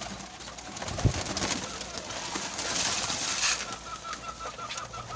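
Domestic pigeons cooing. A knock comes about a second in, a rustling burst follows around the middle, and a rapid string of short high chirps runs through the second half.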